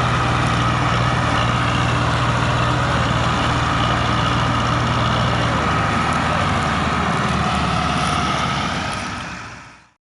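Massey Ferguson tractor's diesel engine running steadily, its low hum shifting a little about halfway through, then fading out near the end.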